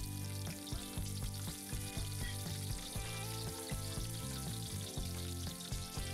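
Sliced green chillies sizzling in hot oil, a steady crackling hiss. Background music with a steady beat plays over it and carries the low end.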